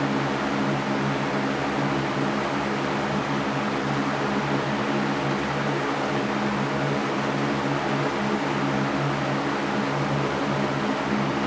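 Electric fan running steadily: an even rush of air with a steady low hum from the motor underneath.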